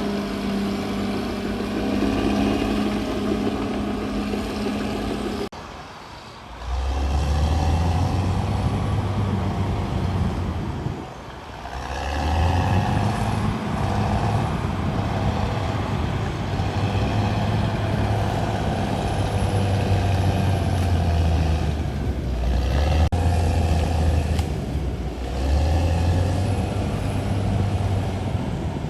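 Heavy diesel engine of a CAT D6R XL bulldozer running as it works, its note rising and falling. About five seconds in the sound changes abruptly to a deeper engine note, and it dips away briefly twice.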